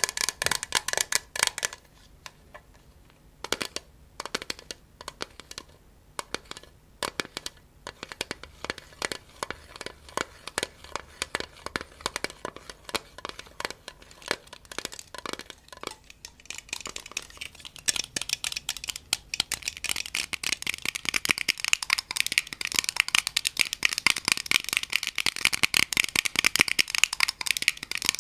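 ASMR tapping and scratching: slow, separate taps with short gaps, turning into a fast, dense run of tapping and scratching about 18 seconds in.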